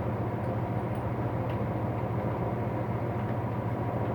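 A steady low hum at an even level, with no starts, stops or impacts.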